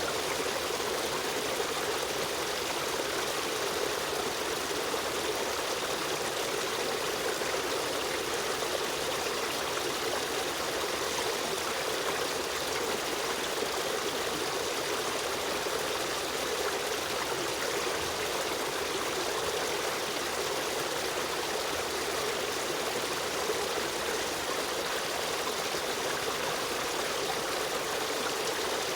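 Stream water running over rocks in a steady, unbroken rush with a light trickle.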